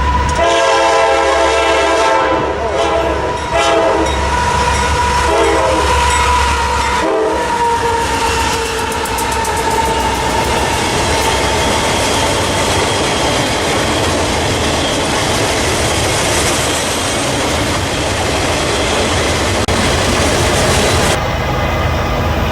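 Diesel locomotive horn sounding several blasts over the first seven or so seconds as a train approaches. It is followed by the loud steady rumble and clickety-clack of the train's wheels rolling past on the rails.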